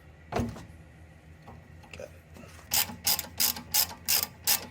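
A socket ratchet working a 14 mm bolt loose: a single knock about half a second in, then a quick run of about six ratcheting strokes in the last two seconds.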